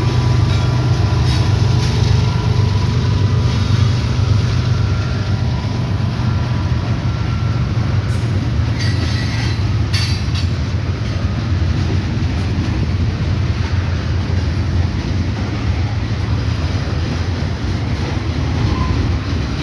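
Kansas City Southern freight train rolling past with a steady low rumble, with faint wheel squeal in the first few seconds and a few sharp clatters of wheels on rail joints about halfway through.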